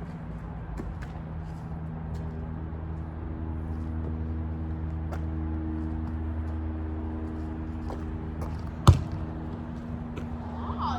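A steady low engine hum, like a vehicle running or idling nearby, growing a little louder toward the middle. A single sharp thud about nine seconds in is the loudest sound.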